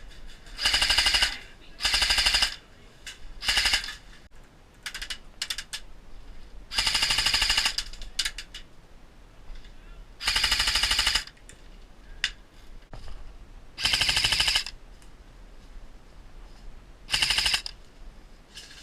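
Airsoft gun firing in full-auto bursts: about seven short bursts of rapid clicks, each half a second to a second long, a few seconds apart, with faint scattered clicks between them.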